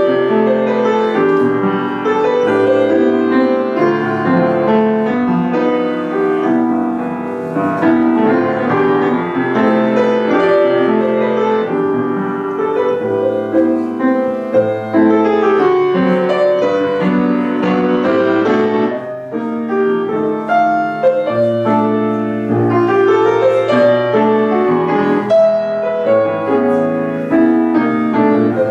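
A piano piece being played: a continuous run of notes without a break.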